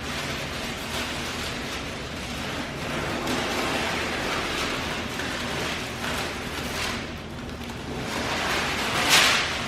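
Plastic masking film being pulled off a freshly painted car body, crackling and rustling throughout, with a louder rip near the end.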